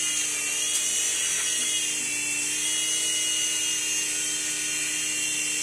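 Mini RC helicopter's small electric motors and rotor whining steadily in flight, the pitch wavering slightly as it is steered.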